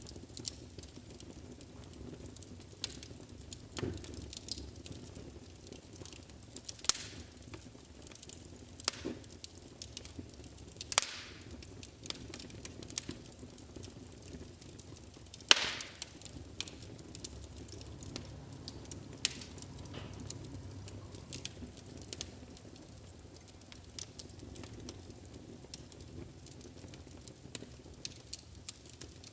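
Wood fire burning in a fireplace: a low steady rumble with irregular sharp crackles and pops, a few louder pops standing out.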